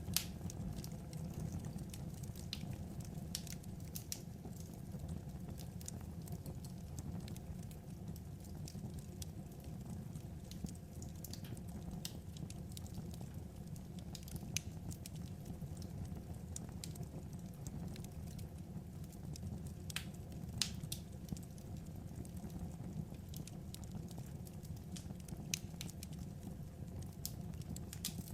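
Wood fire crackling: a steady low rumble of burning logs with irregular sharp pops and snaps, a few of them louder than the rest.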